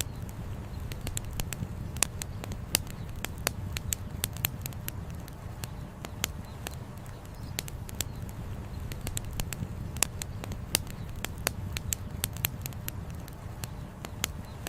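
Wood campfire crackling, with irregular sharp pops of burning firewood several times a second, over the steady low rush of a flowing river.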